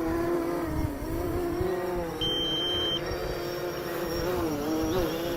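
DJI Phantom 3 quadcopter's propellers buzzing steadily close by, the pitch wavering slightly as the motors work against strong gusts, with wind rumbling on the microphone. About two seconds in, a short high electronic beep sounds for under a second.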